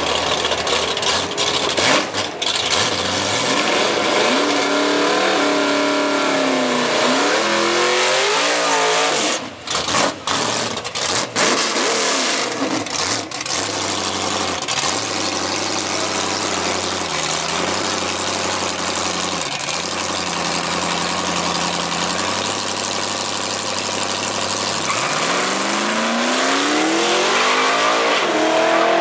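Naturally aspirated 347 stroker small-block Ford V8 in a Mustang, revving up and down, then running steadily for a long stretch, then climbing in pitch over the last few seconds as it accelerates.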